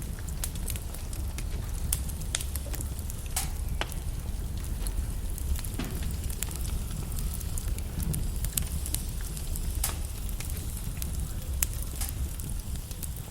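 Wood logs burning in a fireplace: a steady low rumble of flame with frequent, irregular sharp crackles and pops.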